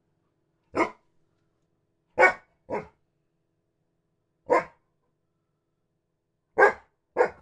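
A dog barking aggressively: six short, sharp barks, some single and some in quick pairs, with silent gaps between them.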